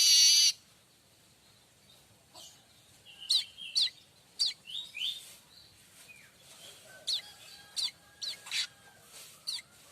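Manyar weaver bird singing: a loud harsh buzzy phrase cuts off about half a second in, followed by a scattered series of short, sharp, high falling chirps.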